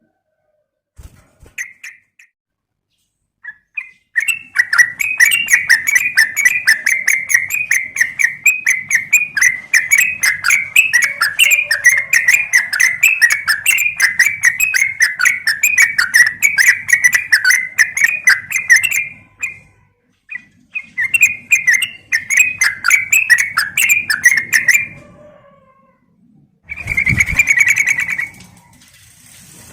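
Yellow-vented bulbul (trucukan) chattering in long, fast runs of notes: one long bout, a second shorter one, and a brief burst near the end. It is a lure call, given as a female calling a male.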